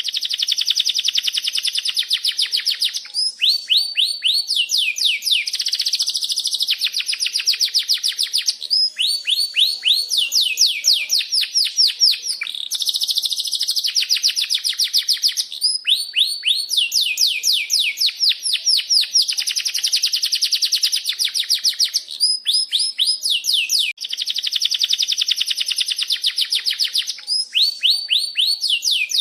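Domestic canary singing continuously in long, rolling phrases: fast trills of rapidly repeated chirps that switch to a new note type every second or two.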